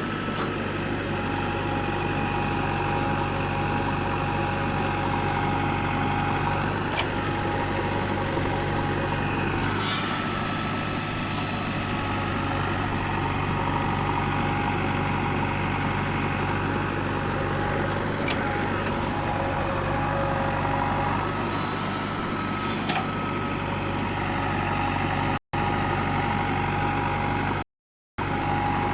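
Heavy machine's diesel engine running steadily at an even pitch. The sound cuts out completely twice, briefly, near the end.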